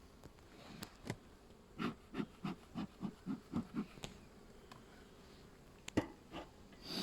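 Honeybees humming faintly around an open hive, broken by a quick run of about seven knocks, roughly three a second, and a few sharp clicks near the end.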